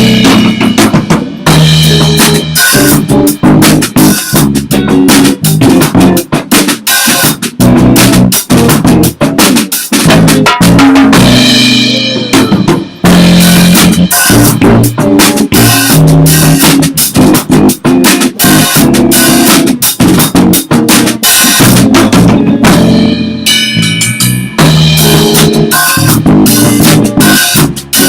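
Rock trio playing together: a drum kit hit hard and steadily, with bass guitar and electric guitar underneath.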